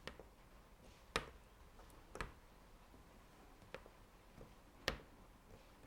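Five light, sharp taps at uneven intervals, roughly a second apart, over quiet room tone.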